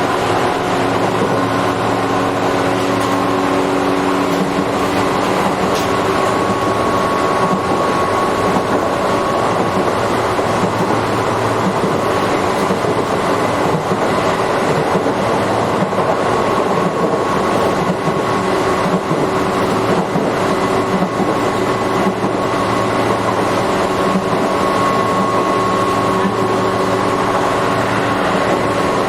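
Tobu 8000 series electric train running at a steady speed, heard from inside the carriage: an even hum and whine from the traction motors and gears over constant wheel-on-rail rumble.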